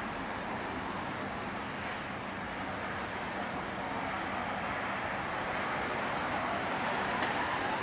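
Steady outdoor background noise of road traffic, with a faint tick or two near the end.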